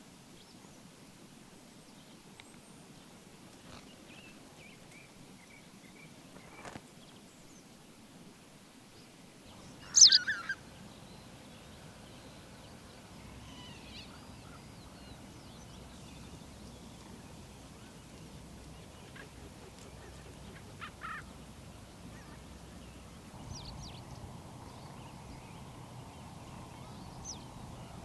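Wild birds calling now and then over a faint steady background. The loudest is a sharp call about ten seconds in, with a shorter call around twenty-one seconds and a few faint chirps in between.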